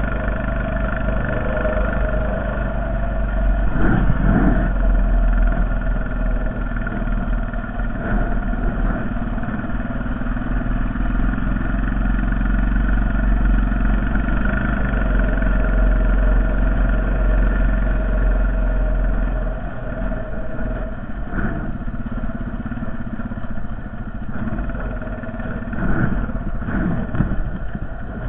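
Honda Foreman 450 ATV's single-cylinder four-stroke engine running steadily while plowing snow. A few brief louder noises come about 4 seconds in, around two-thirds through, and near the end.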